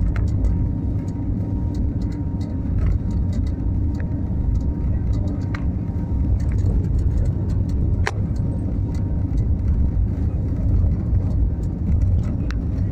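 Airplane taking off: a steady, deep rumble of engines and airframe, with a few faint scattered clicks and rattles.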